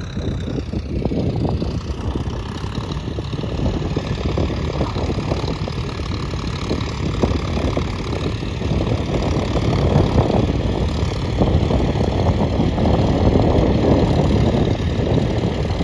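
Engine of a heavy earthmoving vehicle running steadily, growing a little louder in the second half.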